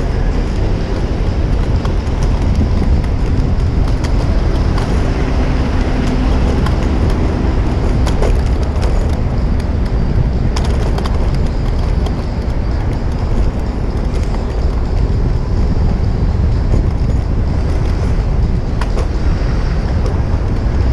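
Steady city street traffic noise heard from a moving bicycle, with a loud low rumble on the action camera's microphone and a few faint clicks.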